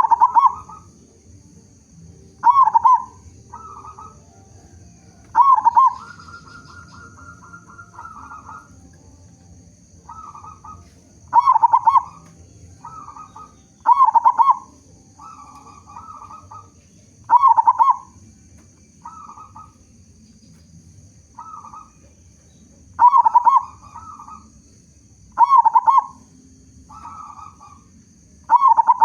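Zebra dove (perkutut) cooing: loud, short coo phrases every few seconds with softer coos between them, and a rapid even trill lasting a couple of seconds about six seconds in. A faint steady high hiss runs underneath.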